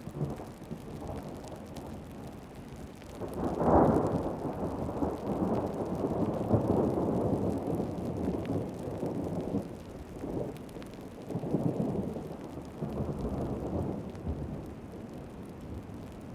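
A long roll of thunder over steady heavy rain. It starts at once, cracks loudest about four seconds in, then rumbles on in several swells and dies away near the end.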